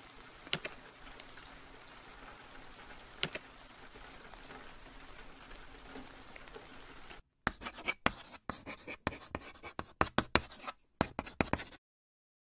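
Steady light rain with a couple of single drip ticks. About seven seconds in the rain cuts off and a stuttering run of short scratchy bursts, a glitch sound effect, plays for about four seconds, then stops dead.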